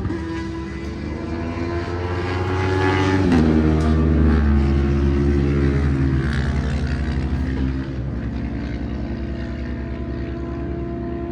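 An engine running steadily, its pitch stepping up about three seconds in and dropping back a little near eight seconds.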